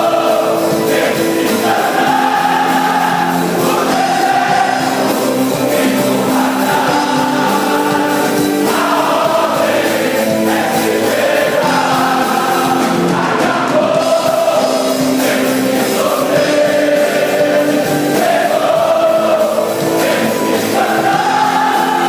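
Choir singing gospel music in long held notes, each phrase lasting about two seconds.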